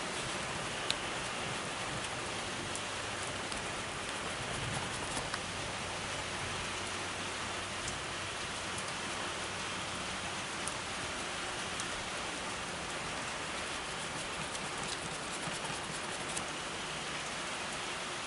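Steady rain falling, a constant even hiss with a few sharp drip ticks scattered through it.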